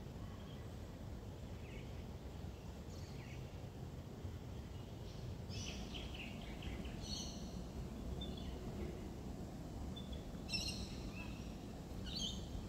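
Birds giving short, scattered chirps over a steady low background rumble, with a cluster of calls around the middle and a couple more near the end.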